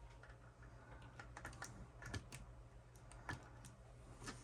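Faint, irregular light clicks and taps of small objects being handled on an electronics workbench, over a low steady hum.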